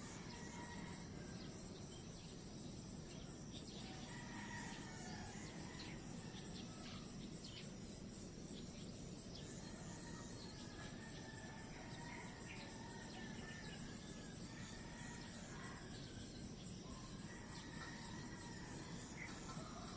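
Faint, steady natural ambience: a continuous high insect or cricket drone, with short bird calls scattered throughout over a low, even background hiss.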